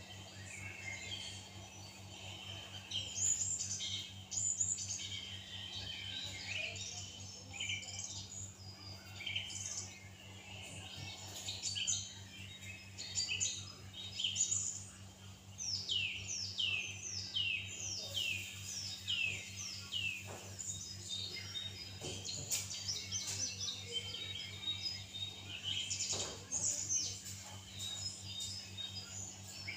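Birdsong from several songbirds, a busy mix of short chirps and calls, with a run of quick downward-sweeping notes about halfway through. A steady low hum runs underneath.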